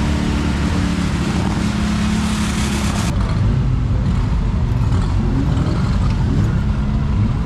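Vintage car engine running steadily. About three seconds in the sound changes abruptly, and the engine noise carries on lower, with a few rising revs near the end.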